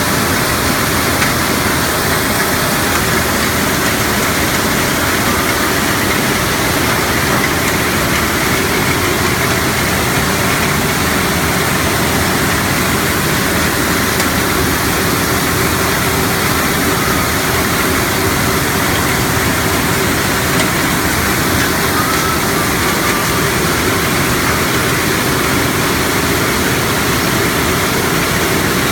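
Gravel-crushing sand-making machinery running with a steady, loud noise.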